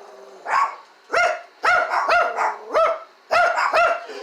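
A dog barking repeatedly, about seven sharp barks at roughly two a second.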